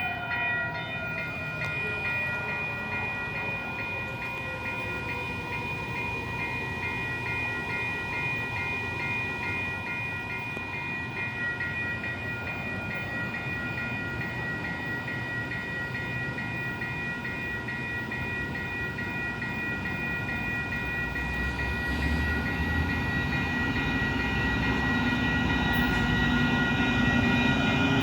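Commuter train at a station, with steady high ringing tones throughout. A rumble grows louder over the last several seconds as a train draws near.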